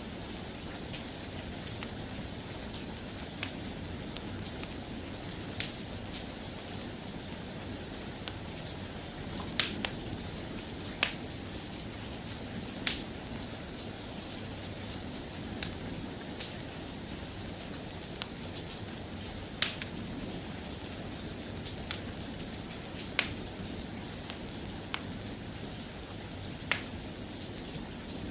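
Steady rain, with a wood fire crackling over it in sharp, scattered pops every second or few.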